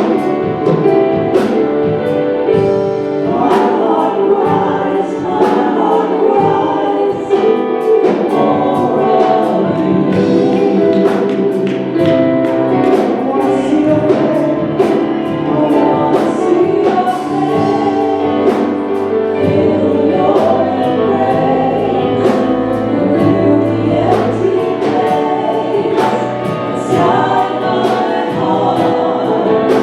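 Gospel choir singing with a band, a steady drum beat under the voices.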